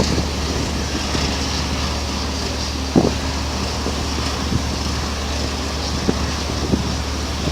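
Steady low engine drone with wind buffeting the microphone, and a sharp gust bump about three seconds in.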